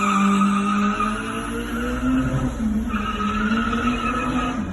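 Turbocharged VW Gol's engine held at steady high revs, with a steady higher-pitched whine over the engine note. The pitch dips briefly about halfway through, then picks up again.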